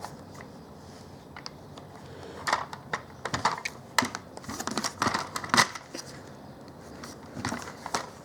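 Hard plastic toy track pieces being handled and fitted together by hand: irregular clicks, taps and clatters, bunched in the middle of the stretch and once more near the end, as the parts are pushed and turned to make them connect.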